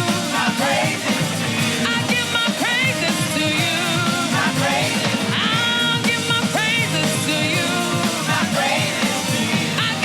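Live gospel worship band playing in church, with a melody line gliding up and down over a steady, full backing.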